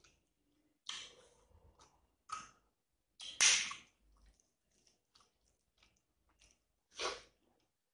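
A person chewing a mouthful of rice and curry, eaten by hand, in several short wet bursts with small clicks between them, the loudest about three and a half seconds in.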